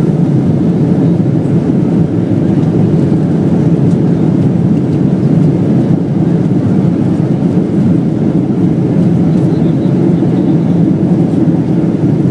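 Boeing 767-300ER heard inside the cabin during landing: a loud, steady roar of engines and rushing air that holds even throughout.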